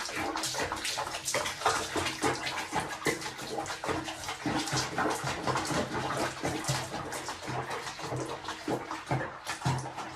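Water splashing and running in a bath, with quick splashes throughout.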